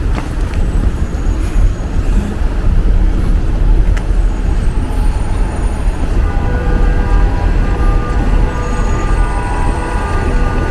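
Street traffic noise with a heavy, steady low rumble. About six seconds in, a steady whine of several held tones joins in, like a nearby vehicle's engine or motor.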